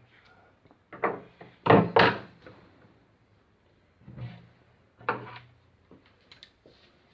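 A series of knocks and thuds, like wood or a door being knocked or shut: two loud ones close together about two seconds in, single ones later, and a few light clicks near the end.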